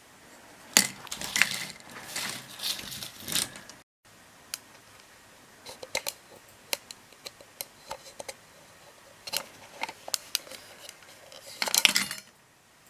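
Small hard objects clinking and clattering as they are handled: a burst of rattling knocks, then scattered single clicks, then another loud clatter near the end.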